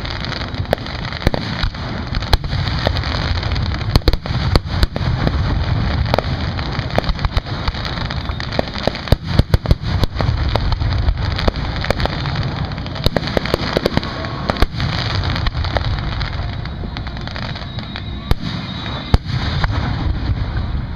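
Aerial fireworks bursting in quick succession: repeated sharp bangs and crackles over a continuous low rumble, with a dense run of loud reports about nine to ten seconds in.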